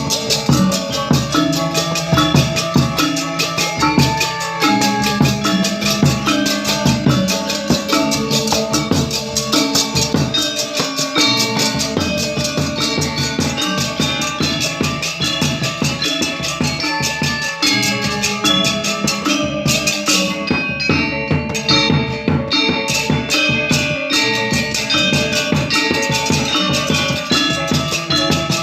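Balinese gamelan gong ensemble playing together in rehearsal: bronze metallophones and gongs struck in a fast, dense pattern, with drums.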